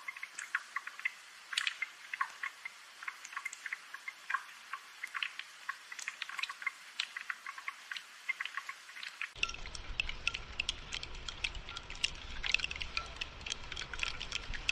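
Rain dripping and pattering: many small, irregular drops ticking. About nine seconds in a low rumble joins the rain.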